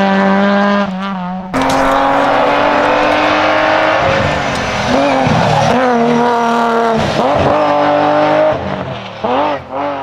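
Hill-climb race car engine at high revs, holding a steady note, then cutting abruptly about a second and a half in to an engine pulling up through the revs. Near the end the pitch drops and climbs sharply several times in quick succession, as in lifts and gear changes.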